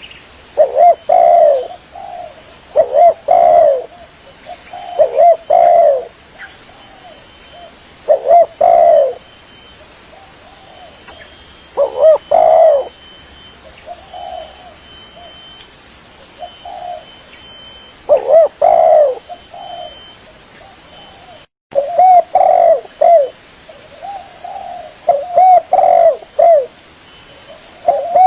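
Spotted dove cooing: loud, repeated short coo phrases of about a second each, some in quick pairs, with quieter gaps of a second or two between groups. The audio cuts out for an instant about two-thirds of the way through.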